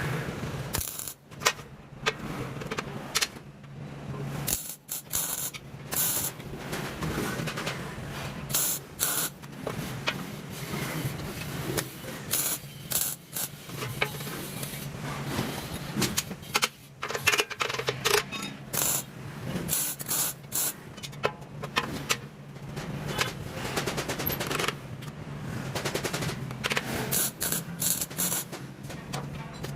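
Metalworking noise from fan fabrication: irregular, rapid bursts of hissing and crackling, with sharp clicks, over a steady low hum.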